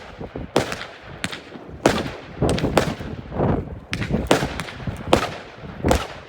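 Fireworks exploding: about a dozen sharp bangs at irregular intervals, some close together, each trailing off in a short echo.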